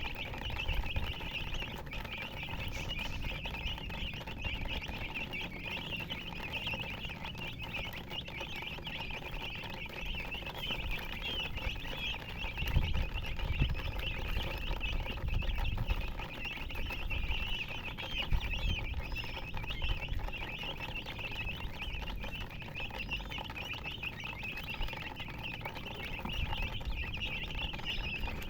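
A brood of baby chicks peeping continuously, many short high chirps overlapping, with dull low thumps and scuffling now and then underneath.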